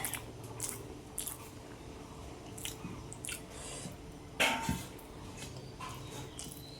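Close-up mouth sounds of a person chewing food, a series of short wet smacks and crunches, the loudest about four and a half seconds in.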